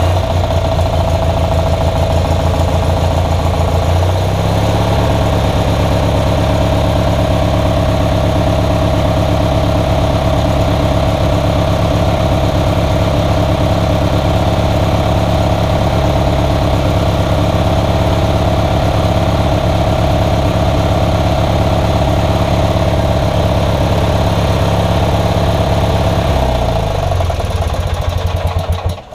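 Old lawnmower's small engine running steadily after being cranked. It picks up speed about four seconds in and holds at roughly 2100 RPM, as read on a vibrating-reed tachometer held against it. Near the end it winds down and stops.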